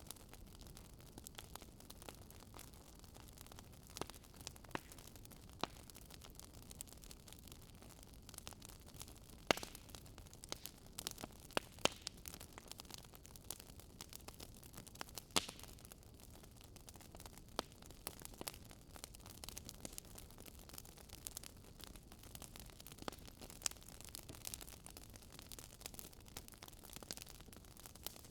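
Wood fire crackling in a fireplace: irregular sharp pops and snaps over a faint steady hiss. A few pops stand out louder, about a third and halfway through.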